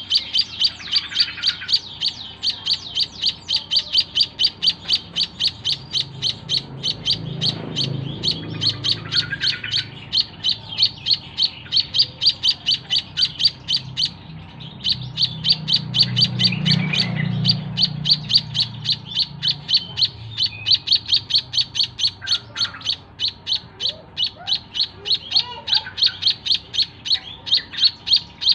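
White-headed munia (emprit kaji) chick giving rapid, repeated high chirps, about three a second, the chattering begging call of a hungry hand-fed chick. The calling stops briefly about halfway through, and a faint low rumble sits underneath in two stretches.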